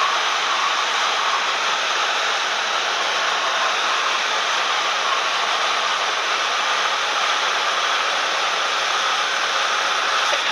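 Steady cabin noise of a Cessna 172M with its Lycoming four-cylinder engine running: an even rush of engine, propeller and airflow with no change in level.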